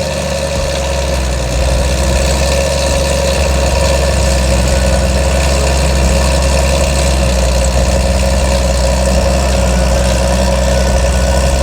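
A car engine running at a steady, deep idle close by, getting a little louder about a second and a half in.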